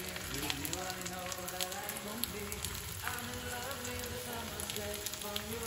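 Folded chapati frying in melted fat on a hot iron tawa: a steady sizzle with scattered small crackles.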